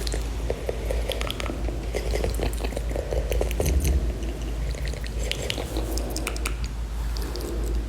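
Fast, wet ASMR mouth sounds close to the microphone: a rapid, continuous run of tongue clicks, lip smacks and squishy pops, over a steady low hum.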